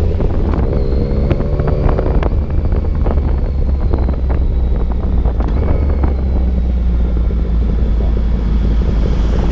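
Yamaha motorcycle engine running steadily under way, with wind rushing over the microphone and many small knocks and clicks.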